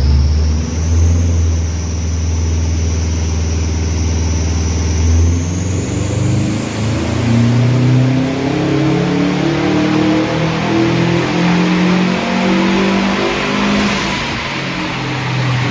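Turbocharged flat-four engine of a bug-eye Subaru WRX running on a chassis dyno during tuning. It holds steady at low revs, then from about six seconds in the revs climb steadily through a pull, with a high whine rising throughout.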